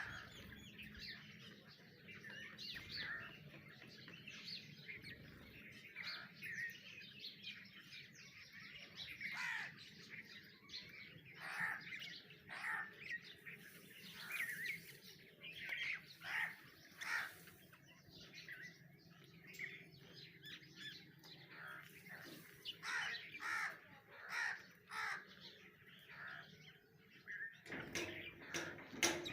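Birds calling, a steady run of short chirps and calls one after another.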